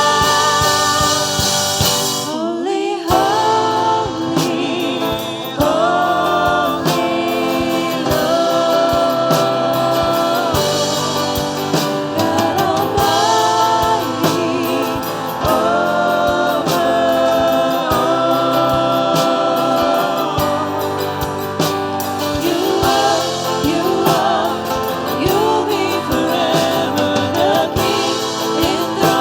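Gospel worship music: a group of voices singing over instrumental accompaniment.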